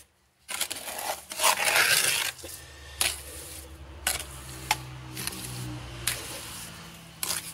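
Steel mason's trowel working mortar into the gaps behind a refractory brick wall: rough scraping strokes, then sharp metallic clinks of the trowel. A low steady hum comes in about two and a half seconds in.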